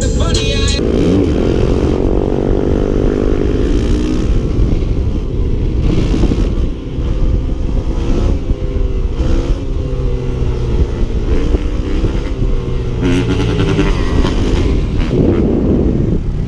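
Dirt bike engine running and revving, its pitch rising and falling several times.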